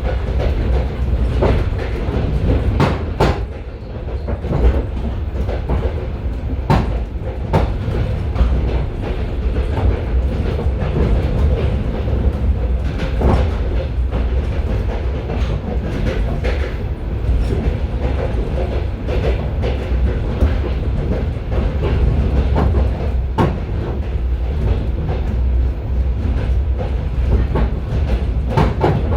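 Railway passenger carriage running at speed, heard from inside its vestibule: a steady low rumble of wheels on track, broken by irregular sharp clicks and knocks as the wheels pass over rail joints.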